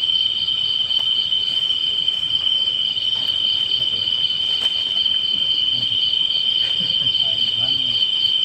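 Night insects chirring: one loud, unbroken high-pitched drone with a second, rapidly pulsing trill layered just above it.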